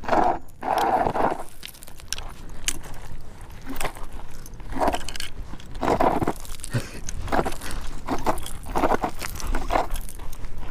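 Electric scooter's tyres crunching and rattling over loose gravel and rocks, with gusts of wind buffeting the microphone in uneven swells and a low rumble underneath.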